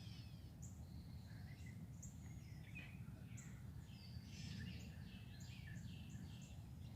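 Several wild songbirds chirping and singing, a mix of short high chirps and quick downward-sliding calls, thickest about four to six seconds in, faint over a steady low background rumble.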